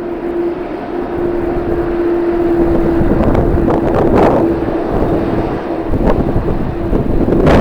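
Strong wind buffeting the microphone in gusts, over a steady low-pitched hum that holds one note throughout.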